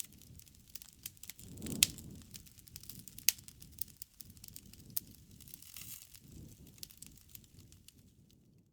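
Wood fire crackling: irregular sharp pops and snaps over a soft low rumble, with a louder pop a couple of seconds in. It cuts to silence at the very end.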